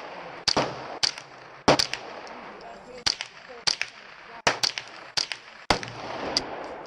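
A string of gunshots fired at a steady pace, about one every half second to a second, each a sharp crack with a short ring. Fainter shots fall between the louder ones.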